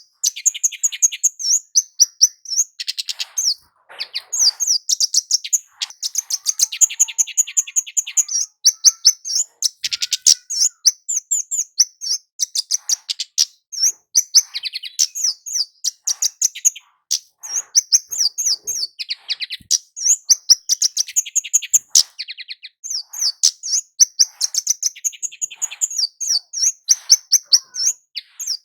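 Kemade jawa, a small Javan flowerpecker, singing in a rapid, almost unbroken stream of short, high, sharp chips and twitters, with one brief pause early on. This is the bird's full, lively song ('gacor') as used in lure recordings to set other kemade calling.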